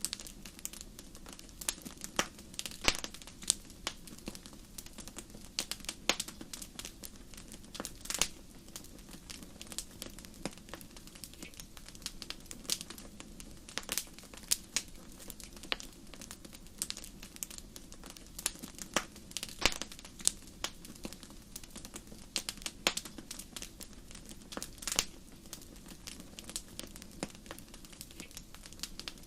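Wood fire crackling in a fireplace: a low steady hiss of burning under irregular sharp pops and snaps, several a second, some louder than others.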